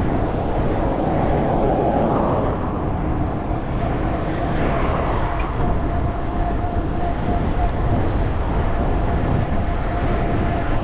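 Steady road and engine noise of a car driving at speed, heard from inside the cabin. A faint steady whine joins about halfway in.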